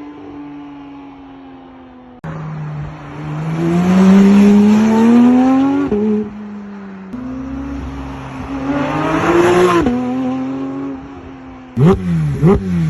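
Porsche 992 GT3's naturally aspirated flat-six through a valved performance catback exhaust, accelerating hard twice with its pitch climbing until a sharp drop at the upshift, between stretches of steady running. About a second before the end, quick sharp throttle blips begin.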